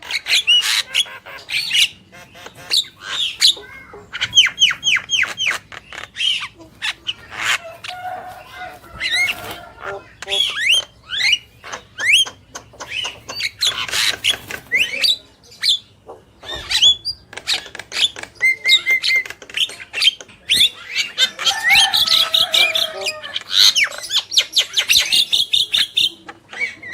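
Javan mynas chattering and singing: a rapid, unbroken jumble of chirps, squawks, clicks and whistled notes, with short runs of quickly repeated notes.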